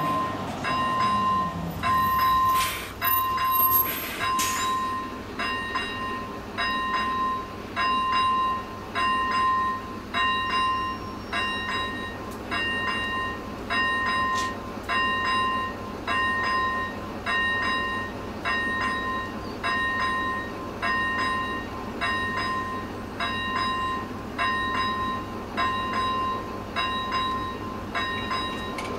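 Czech level crossing's electronic warning bell ringing in an even repeating rhythm, about one and a third strokes a second, which signals that a train is approaching. A vehicle briefly passes in the first couple of seconds, with a falling pitch.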